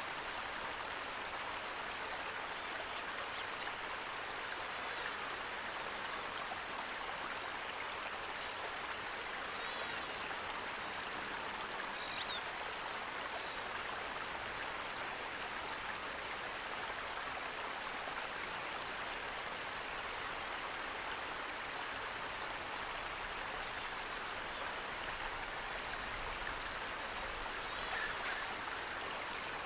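Steady rushing water of a stream or waterfall, an even hiss without change, with a few faint short high bird chirps scattered through it.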